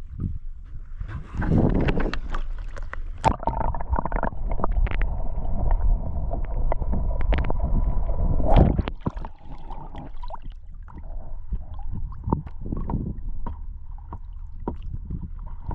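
Wind buffeting the microphone over water sloshing and gurgling around a kayak, with scattered sharp knocks and splashes. A louder gust or splash comes near the start and again about halfway. A faint steady high hum runs underneath from a few seconds in.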